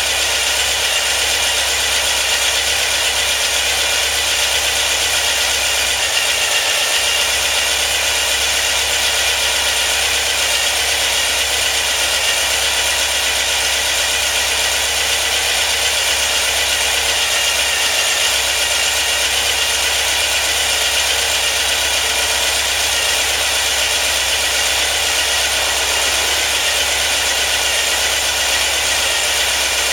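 Built 2332cc air-cooled Volkswagen flat-four with dual Weber 48IDF carburetors and an A1 exhaust, running at a steady speed.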